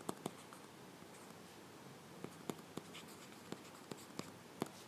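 A pen writing: irregular light taps and short strokes of the tip, about a dozen, over a faint steady hiss.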